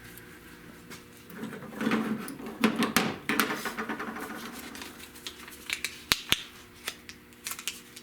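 Hand work on a patch pattern or sheet metal: irregular rustling and scraping with sharp clicks, two of them close together about six seconds in, over a steady hum.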